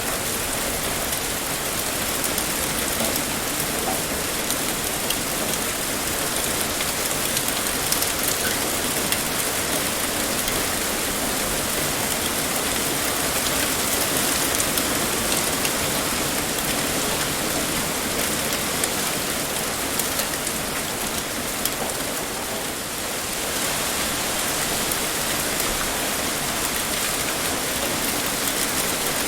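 Heavy rain pouring steadily, with scattered individual drop impacts in the hiss and a brief slight easing a little over three quarters of the way through.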